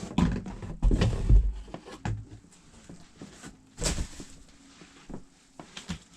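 Cardboard box and packaging being handled as a 1/8-scale RC truck is pulled out: a few heavy bumps in the first second and a half, then scattered knocks and clicks, with a sharp one about four seconds in.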